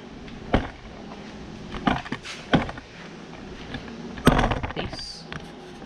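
A few separate knocks and clicks, the loudest about four seconds in, with a brief high squeak near the end.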